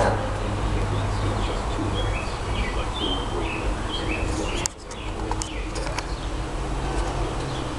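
Birds chirping outdoors: short high calls repeating every half second or so, over a low hum that fades about two seconds in. A sharp click comes about halfway through.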